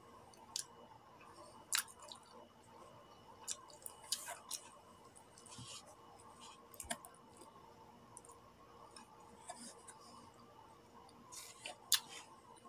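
Quiet eating sounds: a person chewing with the mouth closed, with scattered small sharp mouth clicks and lip smacks, the loudest near the end.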